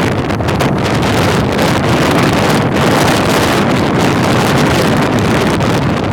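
Strong gusting wind, roughly 60 mph, buffeting the microphone in a loud, continuous rumble.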